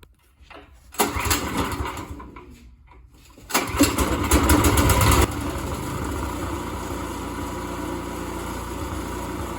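Small snowblower engine being started, its carburetor freshly cleaned: a first attempt about a second in bursts into sound and fades away, then a second attempt catches about 3.5 s in, runs loud briefly and settles into steady running a couple of seconds later. It is the engine's first run in over 8 years.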